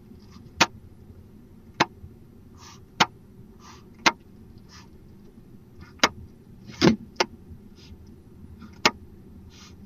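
Barn owls at the nest box: a run of sharp single clicks roughly once a second, with faint short hissing calls between them.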